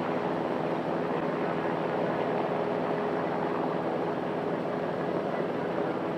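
Light single-turbine helicopter running steadily, an even rushing drone with a steady tone in the low-mid range.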